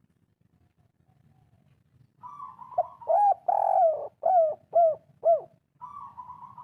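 Spotted dove (derkuku/tekukur) cooing: a soft rolling murmur, then a phrase of loud arched coo notes ending in three evenly spaced 'kuk' notes, the kuk-3 song; a faint murmur starts again near the end.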